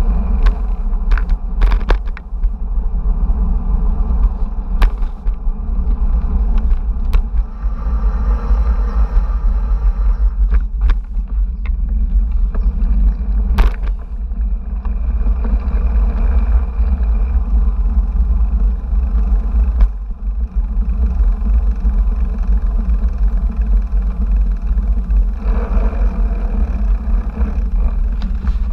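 Steady low wind and road rumble on a bike-mounted action camera's microphone during a bicycle ride, with a few sharp clicks or knocks, the loudest about halfway through.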